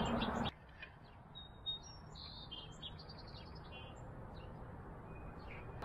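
Small songbirds chirping faintly over a low steady outdoor background, with a quick run of chirps about two seconds in and a few scattered calls later.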